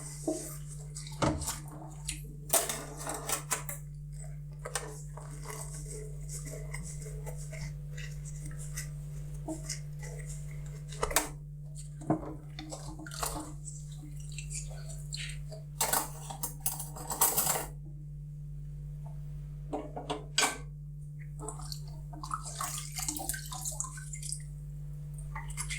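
Hand dishwashing at a sink: dishes and cutlery clinking and knocking now and then, with short bursts of splashing water, over a steady low hum.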